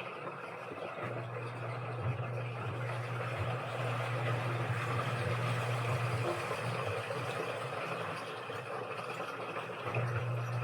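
Washing machine running: its motor hums as the drum turns for about five seconds, stops, then starts turning again near the end, over a steady wash of sloshing noise.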